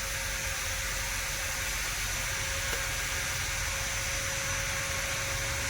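Steady background noise: a constant hiss over a low hum, with a faint steady tone.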